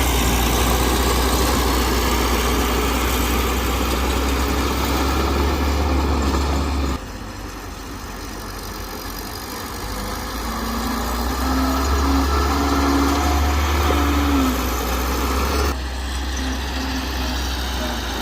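Heavy-equipment diesel engine running steadily. The sound drops abruptly about seven seconds in, then changes again near the end.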